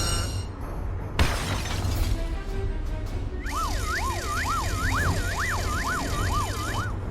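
Cartoon soundtrack: background music with a sharp crash about a second in, then an emergency-vehicle siren sound effect wailing up and down in overlapping tones from about halfway until just before the end.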